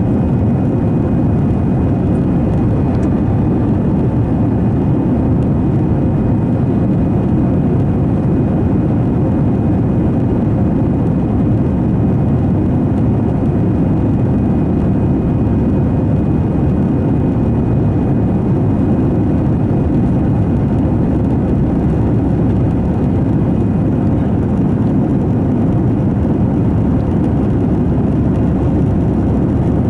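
Steady cabin noise inside an Airbus A321 in flight: the constant low rumble of the jet engines and the rush of air past the fuselage, with a faint steady whine above it.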